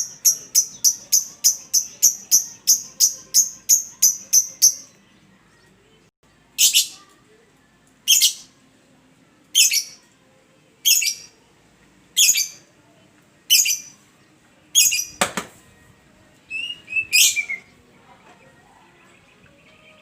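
A songbird calling. A fast run of high, sharp notes, about four a second, stops about five seconds in. Single sharp high notes then follow about every second and a half, and near the end come a couple of notes that fall in pitch. One dull knock sounds about fifteen seconds in.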